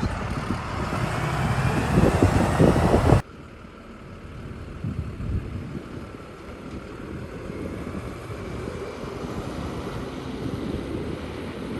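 Steady rushing noise of a moving vehicle with wind on the microphone. It is loud and builds for about three seconds, then cuts off abruptly to a quieter, steady rush.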